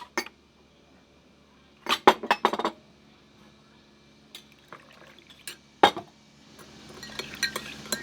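Cutlery and dishes clinking at a breakfast table. There are a few sharp single clinks, a quick cluster about two seconds in, and from about seven seconds a busier run of light, rapid clinks.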